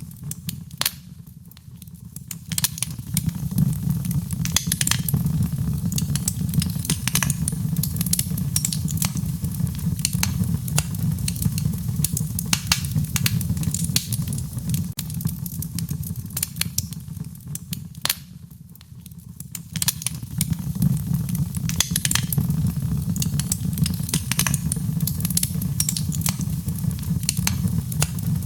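Wood fire burning, its steady low rumble studded with many sharp crackles and pops. It quietens briefly twice, about a second in and again about two-thirds of the way through.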